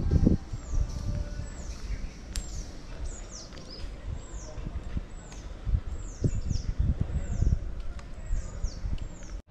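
Small birds calling: short, high chirps that each fall in pitch, repeated about two a second, over low rumbles and thumps.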